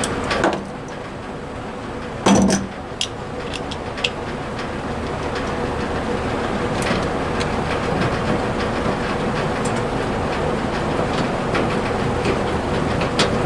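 Hand tools and small bolts knocking and clinking as the truck's dash controls are fastened, with two sharper knocks near the start and a few light ticks after. A steady mechanical hum runs underneath.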